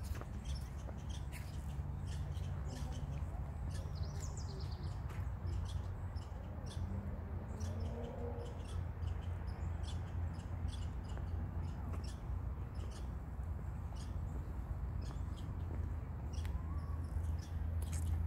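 Birds chirping, with short high chirps scattered all through, over a steady low rumble.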